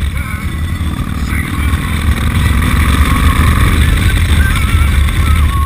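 Motorcycle engine running steadily while riding, a deep continuous rumble that gets a little louder about two seconds in.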